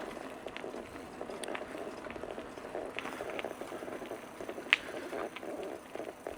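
Bicycle rolling along a trail: steady crackling tyre and road noise, with scattered small clicks and one sharp click about three-quarters of the way through.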